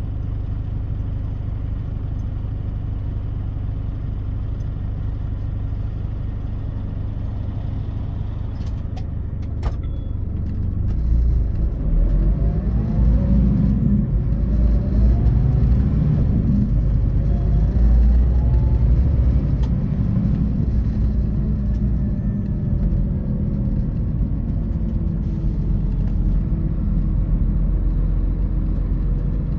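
Scania K450 coach's 13-litre straight-six diesel engine and drivetrain, heard from inside the coach: a steady low drone at first. About ten seconds in it grows louder, and its pitch rises several times as the coach accelerates, before it settles into a steady run.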